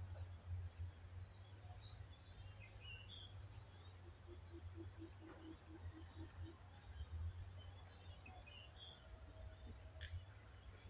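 Faint outdoor ambience of birds calling, with scattered short chirps over a steady low rumble. In the middle comes a short run of low, evenly spaced notes, about four a second, and near the end a single sharp click.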